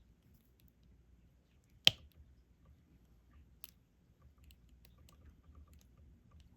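Diamond painting pen tapping resin drills onto the canvas: one sharp click about two seconds in, a fainter one a little later, and a few light ticks in between.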